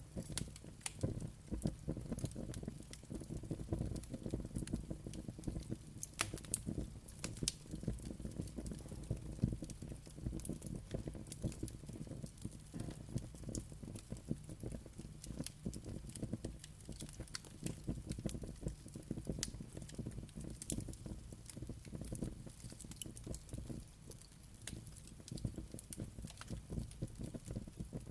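Wood fire crackling, with frequent small sharp pops over a steady low rumble of flames.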